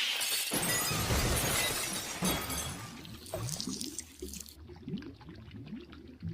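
Cartoon glass-crash sound effect: a shattering crash, then many small shards tinkling and clinking as they settle, fading out over several seconds.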